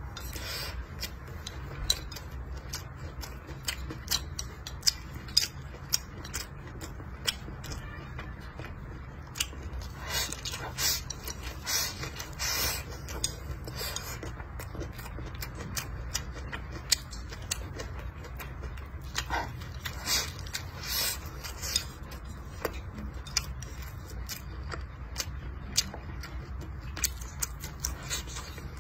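Close-miked chewing of a mouthful of rice and fatty pork belly: irregular wet mouth clicks and lip smacks, over a low steady hum.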